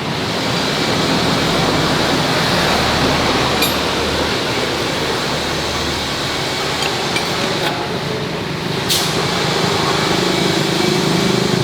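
Steady mechanical running noise, with a few light metallic clinks in the middle.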